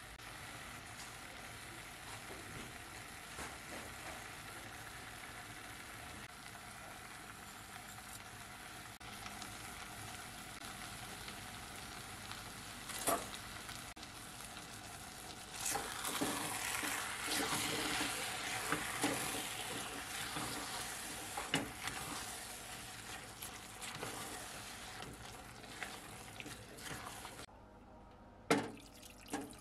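Chopped tomatoes and onion sizzling in a pot on the hob, with stirring and scraping through the mixture that gets louder about halfway through. A few sharp knocks stand out, the loudest near the end.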